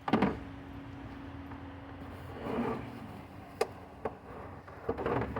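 A few sharp knocks and clunks of parts being handled and set in place: one about the start, two more a little past halfway and another near the end, over a steady low hum.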